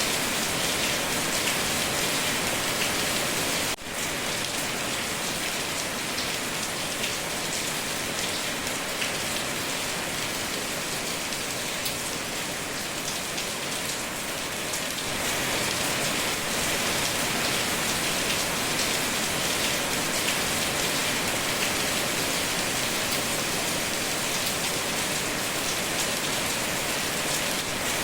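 Steady heavy rain: a dense, even hiss of falling rain with fine pattering drops. The sound briefly drops out for a split second about four seconds in.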